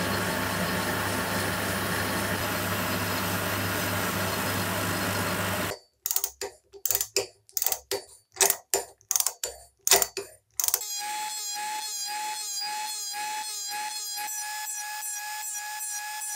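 Workshop machine and hand-tool sounds in three parts. First a machine runs steadily with a low hum; it stops suddenly. Then come about a dozen separate sharp clicks and knocks, and finally a steady high whine with a regular ticking.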